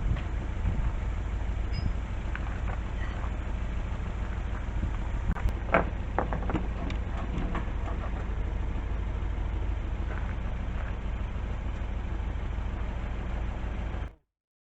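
A few sharp metal knocks and clanks as an engine is worked against its engine mount, clustered around the middle, over a steady low hum. Everything cuts off abruptly near the end.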